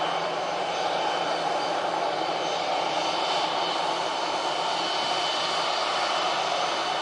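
Airliner jet engines running steadily: an even rush of engine noise with a thin, steady high whine over it.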